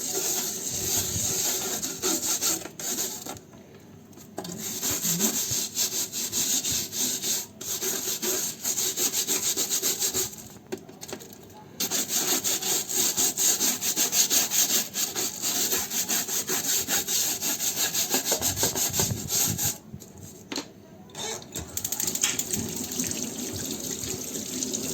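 Rapid back-and-forth scrubbing of a greasy dishwasher filter part with soap, in quick strokes broken by three short pauses, about 3.5, 10.5 and 20 seconds in.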